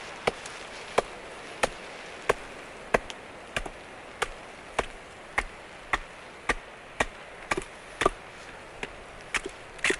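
Knife blade being batoned through a dense oak billet to split it: a steady run of sharp knocks, about one and a half blows a second, as the baton strikes the knife spine.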